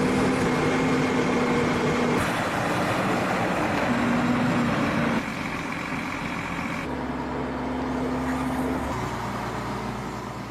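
Heavy diesel machinery running with a steady droning hum and broad mechanical noise. The sound changes abruptly every couple of seconds, as between cut shots.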